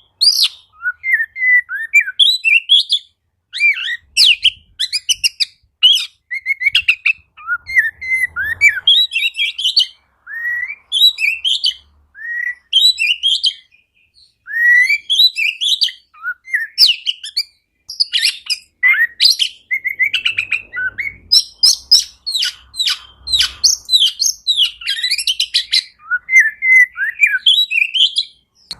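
Oriental magpie-robin (kacer) singing a loud, varied song of rapid whistles, chirps and trills, in phrases broken by brief pauses.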